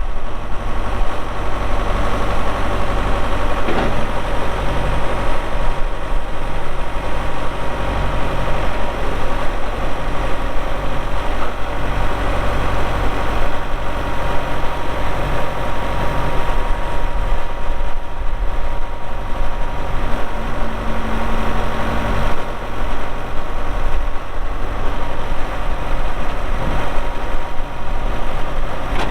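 1996 New Holland 6610S tractor's diesel engine running at a steady speed, a continuous low hum with no revving. There is one brief knock about four seconds in.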